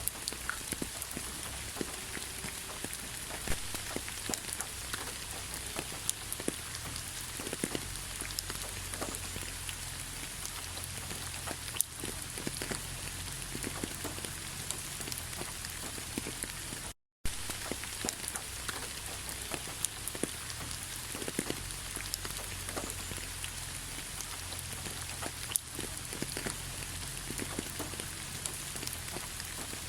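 Steady rain falling, with many individual raindrops tapping on a surface over an even hiss and a low rumble. The sound cuts out for an instant a little past halfway through.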